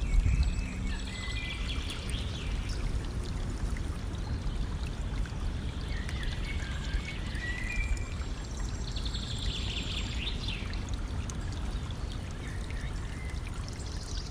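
A stream flowing and trickling steadily, with songbirds singing and chirping over it on and off.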